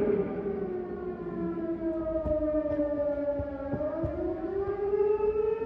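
Air-raid warning siren wailing: one long tone that slowly falls in pitch, then climbs back up near the end.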